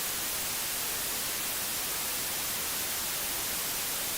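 Steady, even hiss of static-like white noise, strongest in the high end, with no change in level.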